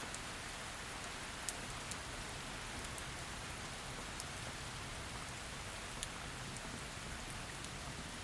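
Heavy rain falling in a steady hiss, with a few sharp individual drops hitting close by, the loudest about a second and a half in.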